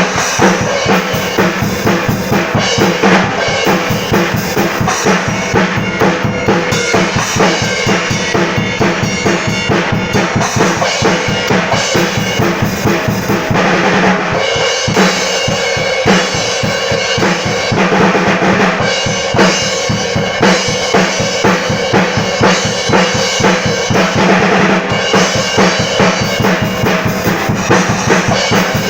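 Drum kit being played: a fast, steady run of kick drum, snare and cymbal strokes, with the new cymbals being tried out.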